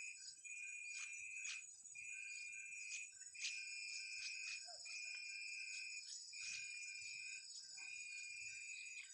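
Insects chirping in a steady repeating rhythm: a high held note of about a second, repeated roughly once a second with short breaks, with short sharp clicks or chips over it.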